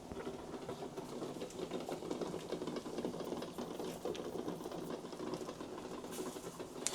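Eggs knocking against the saucepan in boiling water: a fast, irregular tapping and rattle.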